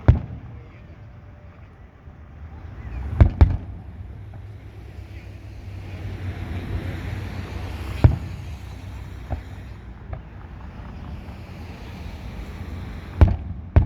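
Fireworks shells bursting in sharp bangs: one at the start, two close together about three seconds in, one about eight seconds in, and two near the end, with smaller pops in between. A steady low rumble and hiss runs under them.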